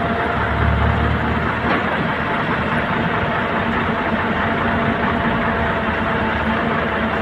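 Heavy diesel engine of earthmoving machinery running steadily, with a brief swell in the low rumble about a second in.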